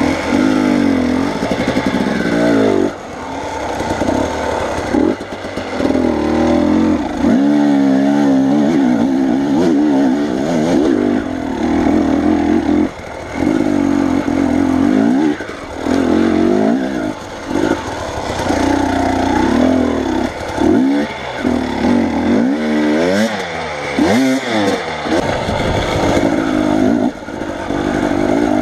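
A motor vehicle's engine revving up and down under load on a rough off-road track, its pitch repeatedly rising and falling with brief drops in level.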